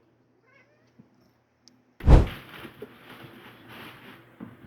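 Near silence, then a heavy thump about two seconds in, followed by soft rustling and shuffling.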